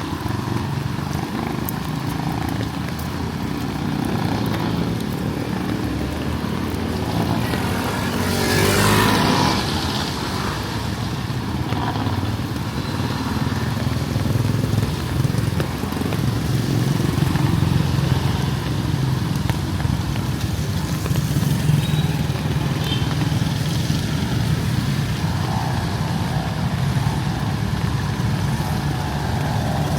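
Street traffic: motor vehicle engines running steadily, with one vehicle passing close and louder about nine seconds in.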